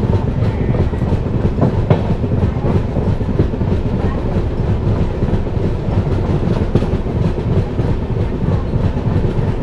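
Running noise of a passenger train heard from aboard the moving coach: a steady loud rumble of wheels on the rails, with the clickety-clack of wheels striking the rail joints.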